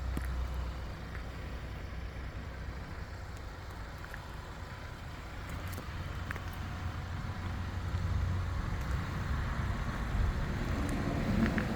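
Audi A5's engine running shortly after a cold start, a steady low hum that grows somewhat louder in the last few seconds.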